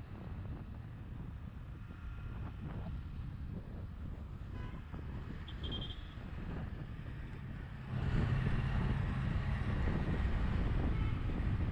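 Wind rushing over a GoPro and road and engine rumble during a ride through city traffic. There is a short high beep about halfway through. About eight seconds in the sound gets louder, with a steady low engine hum and more wind.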